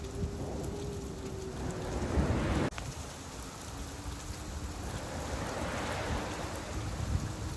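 Steady rain falling with sea surf, the noise swelling and easing. One surge builds and cuts off abruptly a little under three seconds in, and another swells near the end.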